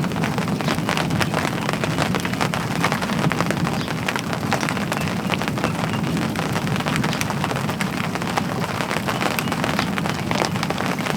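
Rain falling steadily, heard as a dense run of separate drop hits on a surface close by.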